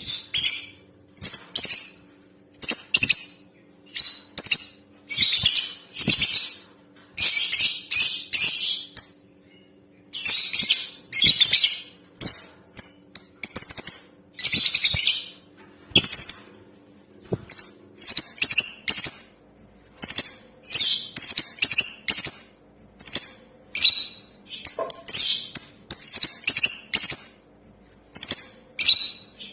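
Female lovebird calling: a steady run of shrill, high chirps and chattering bursts, each lasting from a fraction of a second to about a second, with short gaps between them.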